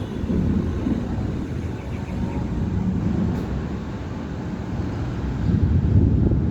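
Low rolling rumble of thunder, swelling louder near the end.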